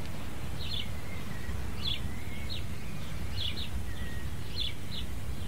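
Outdoor background with a steady low rumble and scattered short, high bird chirps, about seven in all.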